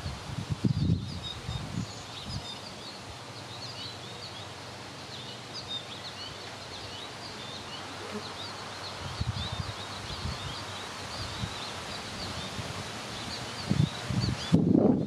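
Small birds chirping and twittering in scattered short calls throughout, over a steady outdoor background. Bursts of low wind rumble on the microphone come just after the start, around the middle and near the end.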